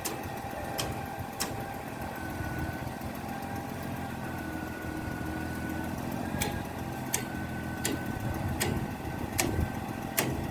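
Engine running steadily with a faint high whine over it. Sharp clicks come twice near the start, then repeat about every 0.7 s through the second half.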